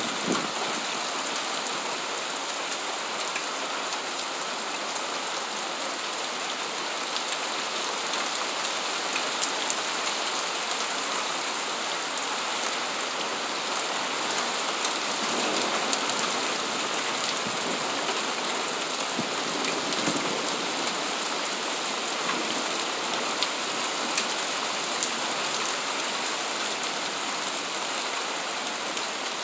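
Steady rain during a thunderstorm: an even hiss of rainfall with many single drops ticking through it.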